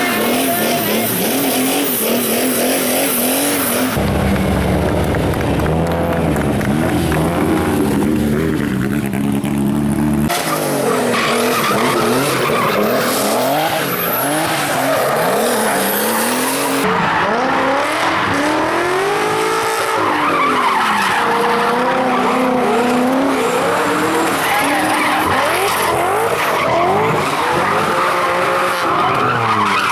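Hill-climb race car engines at full throttle, revving up and dropping back repeatedly through gear changes, with tyres skidding and squealing. The sound changes abruptly about 4, 10 and 17 seconds in as one car gives way to another.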